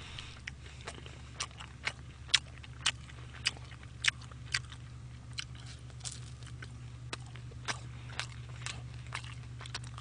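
Close-miked biting and chewing of crisp fried dumplings, with many short crunching clicks at an uneven pace. A steady low hum runs underneath.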